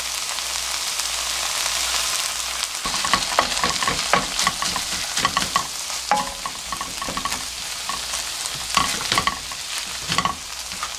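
Chopped onions and canned tuna sizzling in a nonstick wok as a little water goes in. From about three seconds in, a wooden spatula stirs the mix, with repeated light knocks and scrapes against the pan.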